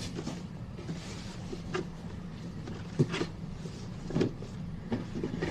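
Handling noise from a gift being opened: a few short knocks and rustles, over a steady low hum.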